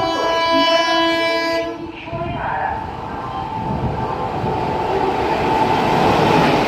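Passenger train passing at close range, a steady dense rumble of wheels and carriages from about two seconds in. Before that, a stack of held steady tones cuts off abruptly.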